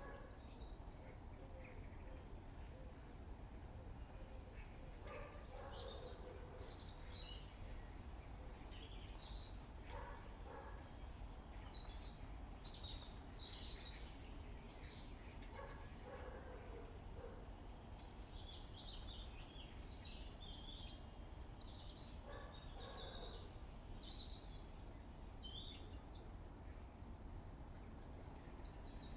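Small garden birds chirping and twittering faintly, many short high calls scattered throughout, over a steady low background rumble. A single brief sharp sound stands out about 27 seconds in.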